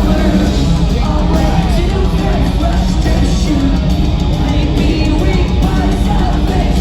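Live rock band playing loudly, with distorted guitars, drums and a singer's voice, recorded from the audience.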